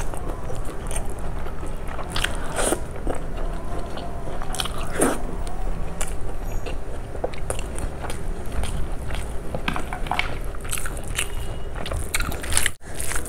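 Close-miked eating sounds of rice with kadhi and fried pakoras, eaten by hand: wet chewing and mouth smacking with some crunchy bites and many short clicks. The sound drops out for an instant near the end.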